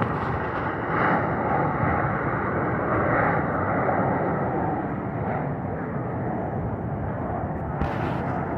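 Airplane engine noise from an aircraft flying overhead: a steady, dense rumble that swells slightly and eases off.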